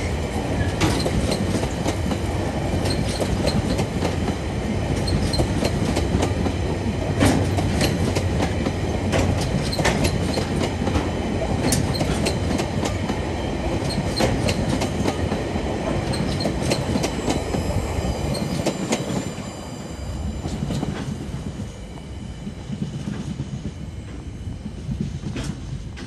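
Freight train wagons rolling past: a steady rumble with clacking of wheels on the track, and brief high wheel squeals a little past the middle. Near the end the sound drops off and grows fainter as the last wagons pass and move away.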